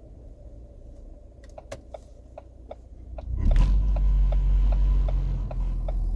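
Car turn-signal clicking steadily, about two and a half ticks a second, from about one and a half seconds in. About three and a half seconds in, the Ford Fiesta ST's turbocharged four-cylinder engine comes on under acceleration with a short rush of intake noise, and its low rumble turns much louder, heard from inside the cabin.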